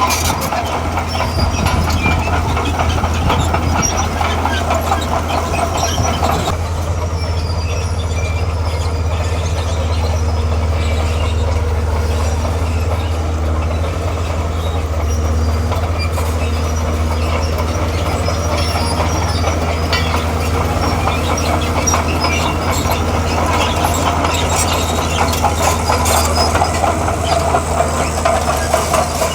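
Heavy tracked earthmover's diesel engine running steadily under a constant low hum, with the steel tracks clanking and squealing. The clatter eases about six seconds in, while the engine keeps running.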